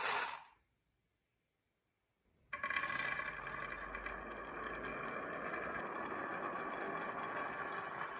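Marbles rolling along a wooden marble run with a steady run of small clicks and clatter, starting about two and a half seconds in after a moment of silence. A louder rushing sound fades out in the first half second.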